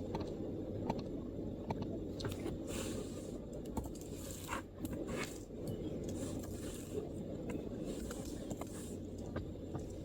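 Scattered, irregular MacBook keyboard keystrokes mixed with a few brief scraping sounds, over a steady low background rumble.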